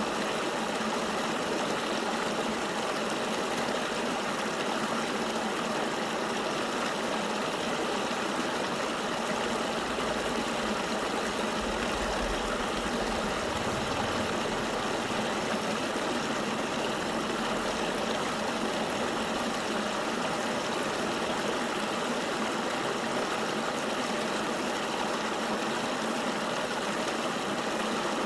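Steady, unbroken rush of a flowing river. A faint low rumble sits underneath from about ten seconds in until about eighteen seconds.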